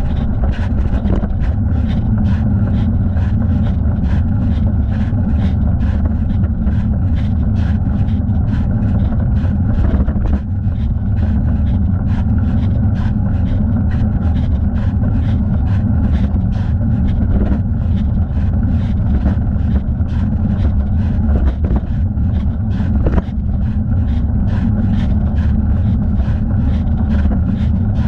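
Wind and road rumble on a thigh-mounted camera's microphone as a bicycle rides along, with a faint regular ticking about three times a second.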